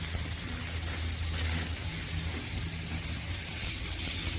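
Compressed-air dust gun blowing a loud, steady hiss as it blasts sanding dust off a freshly sanded car bonnet before painting.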